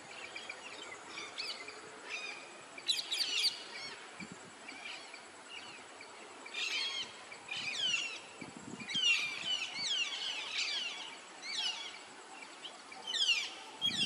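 Birds calling in the trees: clusters of quick, high, downward-sweeping chirps every second or two, over a faint steady background hiss.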